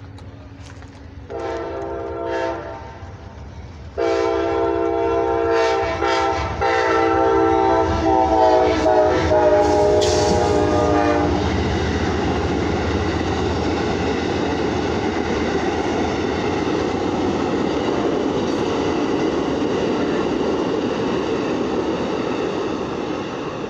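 Amtrak passenger train's air horn sounding a short blast and then a long blast, the warning for the grade crossing, followed by the steady rumble of the passenger cars rolling past on the rails.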